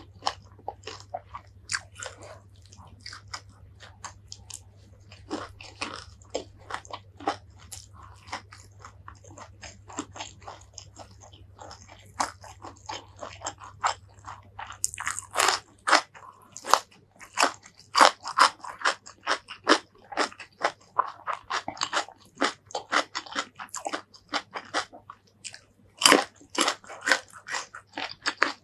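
Close-miked chewing of a mouthful of rice with fried fish and chilli sauce, soft wet clicks at first. About halfway in it turns to louder, denser crunching as raw cucumber is bitten and chewed.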